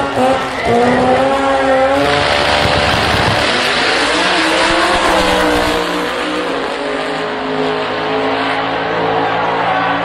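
Turbocharged performance car engine revving hard, its pitch rising and falling, then a loud rushing noise from about two seconds in that lasts about four seconds before the engine note settles steady.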